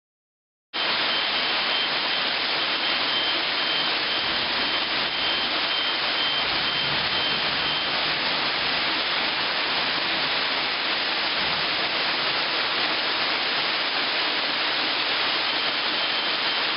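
Thunderstorm rain falling steadily, an even hiss that cuts in abruptly about a second in.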